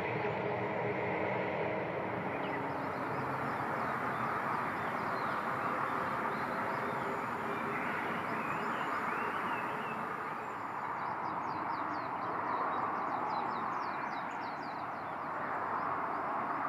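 Small birds calling over a steady rushing background noise, with a fast run of short, high, falling chirps about eleven to fourteen seconds in.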